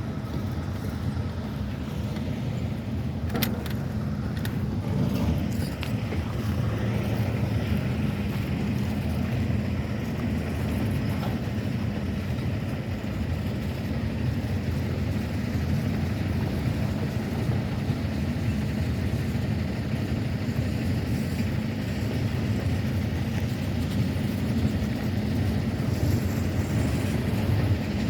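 Norfolk Southern train running past with a steady low rumble, with a few sharp clicks about three to five seconds in.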